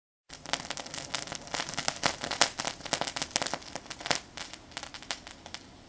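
A bunch of small fireworks going off together: dense, irregular crackling pops, many a second, thinning out and getting quieter near the end.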